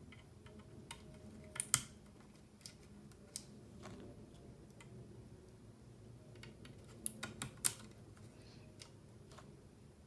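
Mechanical keyboard parts clicking as they are handled and pressed during assembly: sparse, irregular sharp clicks, with small clusters about a second and a half in and again about seven seconds in.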